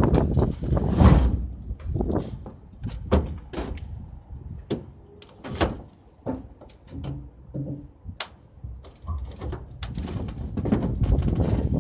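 Knocks, thumps and scraping as a heavy refrigerator is shoved and slid across a truck bed. The knocks are irregular and sharp, sparser in the middle, and a louder grinding scrape builds near the end.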